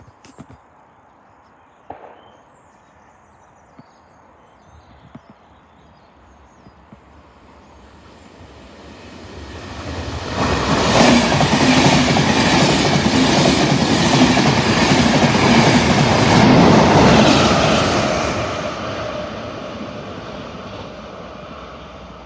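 Enterprise express, a Class 201 diesel locomotive with its coaches, passing through a station at speed without stopping. A rumble builds from about eight seconds in to loud wheel-and-rail noise with rhythmic clickety-clack and a low diesel drone. It fades off as the train runs away.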